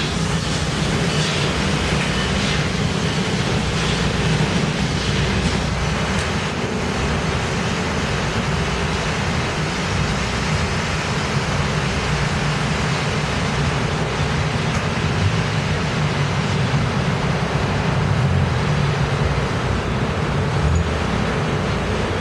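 Railway passenger coaches rolling past, a steady rumble of steel wheels on rail.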